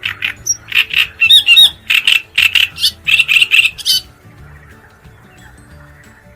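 Great reed warbler singing: a fast run of repeated rasping notes that stops about four seconds in. Soft background music plays underneath.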